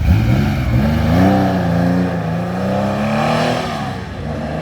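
A classic car's engine accelerating as it drives past: the revs climb quickly in the first second, then hold and slowly ease off.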